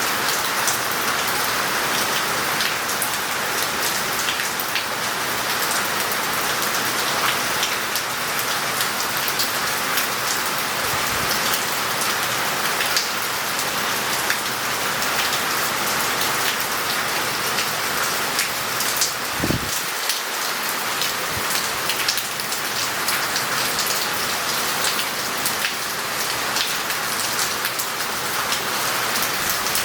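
Heavy rain falling steadily on roof tiles and the street, with water running off and a dense patter of individual drops.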